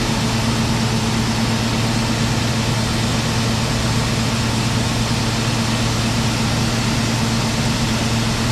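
Heavy farm machinery engine running steadily under harvest work, a constant drone with a low hum.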